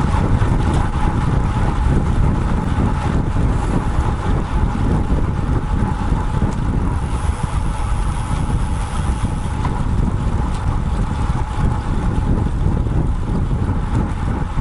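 Steady wind buffeting on the microphone of an action camera mounted on a moving road bike, with a low rumble from the ride.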